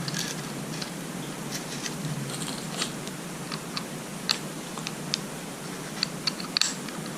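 Scattered small clicks and taps of metal parts being handled on a boat engine's distributor, about half a dozen sharp ones in the second half, over a steady hiss.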